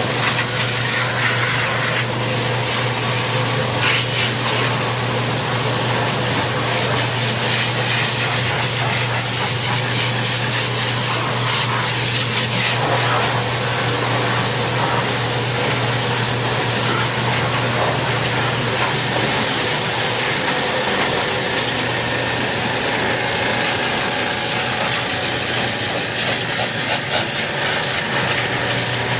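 Steady hiss of water spraying onto a semi truck during a wash, over a continuous low machine hum.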